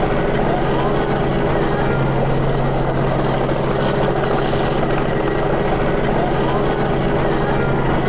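Helicopter running overhead with a steady rotor and engine drone that holds one pitch throughout.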